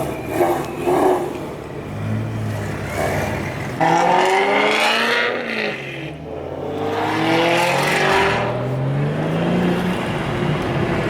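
Car engine accelerating hard, its revs climbing in pitch. There is a sudden loud pull about four seconds in and a second rising pull a few seconds later.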